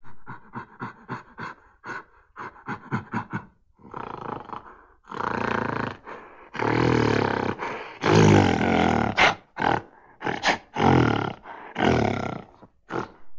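Animal roaring: a quick run of short grunts, then several long, loud roars.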